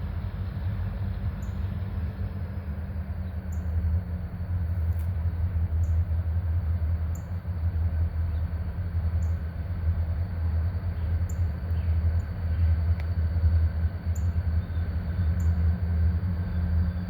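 Low, steady rumble of a freight train's EMD diesel locomotives (a GP40-2LW leading two SD40M-2s), growing a little louder about four seconds in as they approach.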